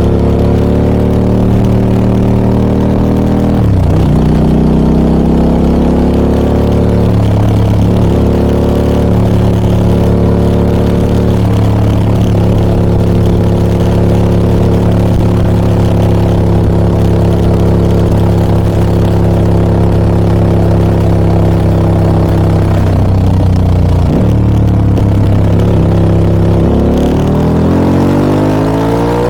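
Harley-Davidson Pan America 1250 Special's V-twin engine running through a Scorpion aftermarket exhaust while riding at a steady throttle, its pitch dipping briefly and recovering several times, then rising steeply near the end as the bike accelerates.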